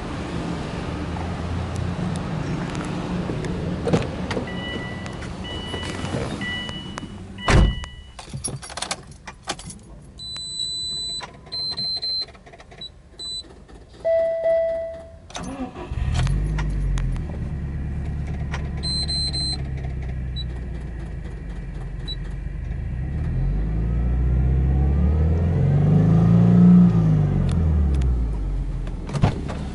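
A sharp thump, then short electronic warning beeps and a brief chime. About halfway through, a Subaru Impreza WRX STI's turbocharged flat-four (boxer) engine starts, flaring briefly before settling to a steady idle. Near the end it is revved up in neutral and let fall back.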